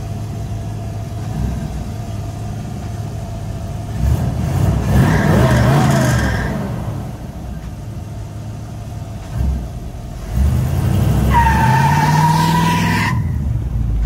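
A 1948 Chevrolet Fleetline's 350 small-block V8 running as the car drives past, revving up twice: once about four seconds in, and again about ten seconds in with a rising pitch.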